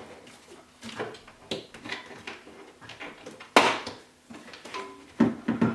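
Scattered knocks, clicks and scrapes of a screwdriver and hands working a rubber intercooler hose onto its turbo pipe, with one sharper knock about three and a half seconds in and a cluster of knocks near the end.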